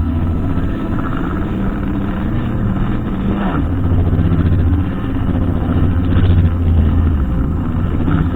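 Brushcutter engine running, its pitch rising and falling as it revs up and down.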